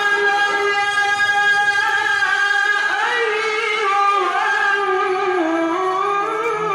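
A qari's voice reciting the Quran in a very high register, holding long melodic notes with slow ornamental bends in pitch, dipping about five seconds in and rising again near the end.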